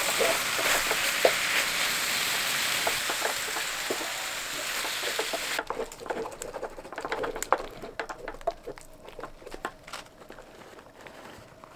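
Chicken and vegetables sizzling loudly in a frying pan as a wooden spatula stirs them with light clicks and scrapes. About five and a half seconds in the sizzle cuts off abruptly, leaving quieter taps and scrapes of the spatula in the pan.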